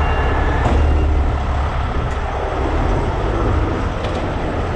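Heavy rotator tow truck's diesel engine running steadily, a continuous low rumble.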